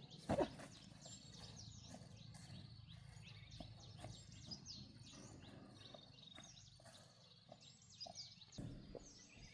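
Small birds chirping repeatedly over a quiet outdoor background, with one sharp knock about half a second in and a few softer knocks near the end.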